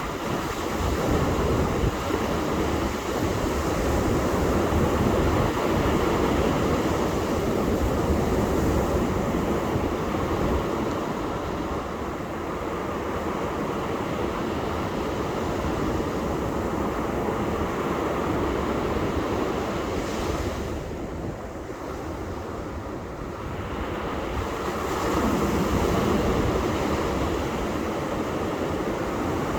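Ocean surf washing on a beach, a continuous rush that swells and eases as the waves break, with wind rumbling on the microphone.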